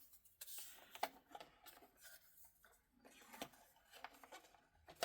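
Faint scattered clicks and soft rustling of small plastic storage containers being handled and stacked.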